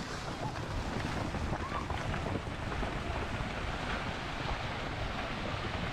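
Steady rushing noise of wind buffeting a handheld camera's microphone outdoors, with a dense low rumble underneath.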